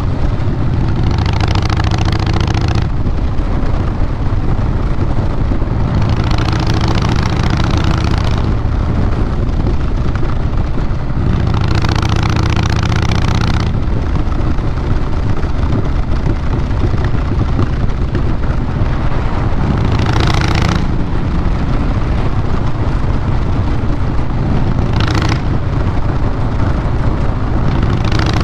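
Harley-Davidson Fat Boy Lo's Twin Cam 96B V-twin running through Vance & Hines Big Radius 2-into-2 pipes, a steady deep exhaust rumble. It swells louder three times for about two seconds each, then in shorter swells near the end, as the throttle is opened.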